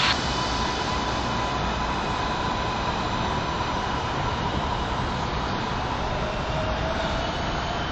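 MARTA rapid-transit train pulling out and running away along the elevated track: a steady running noise with a thin, steady whine.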